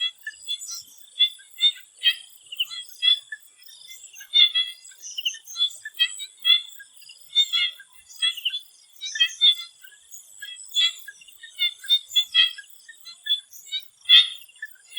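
Swamp frogs calling in a chorus, many short high chirps overlapping irregularly, several a second, over a steady high-pitched drone.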